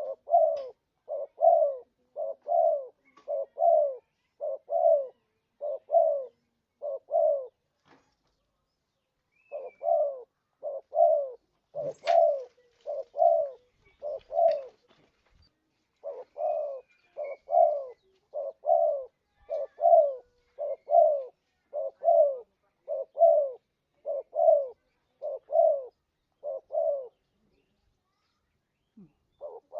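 Spotted dove (tekukur) cooing: long runs of short, low coos at about two a second, broken by pauses about a quarter of the way in, around halfway, and near the end.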